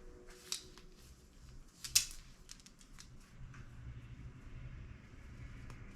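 Hand-handling noise from begleri beads and cord being worked at the bench: scattered small clicks and faint rustling, with a sharper click about half a second in and the loudest about two seconds in.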